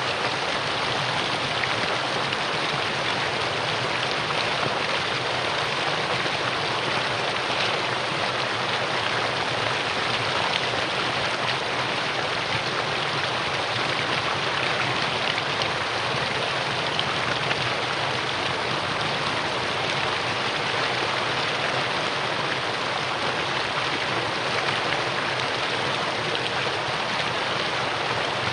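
Mountain valley stream, water flowing in a steady, even rush.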